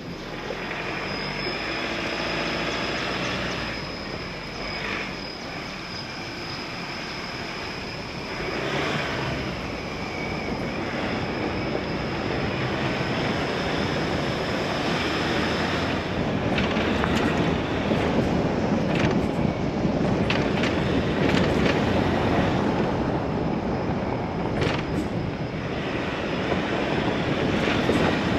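Ford Raptor pickup crawling down a steep, rutted dirt track in four-wheel drive: a steady rumble of tyres and suspension over the rough ground, with sharp knocks and rattles from about halfway through.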